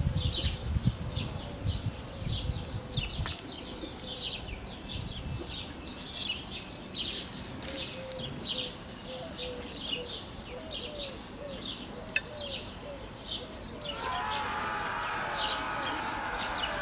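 Birds chirping, with many short high calls repeating a few times a second. A low rumble sits under them for the first few seconds.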